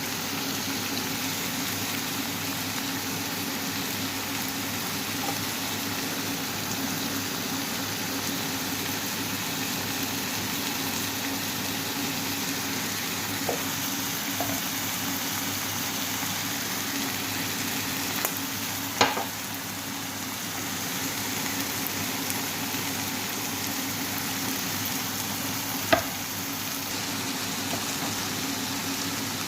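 Chicken and mushrooms sizzling steadily as they fry in a pan, with a few short sharp clicks, the loudest a little past halfway and about three-quarters of the way through.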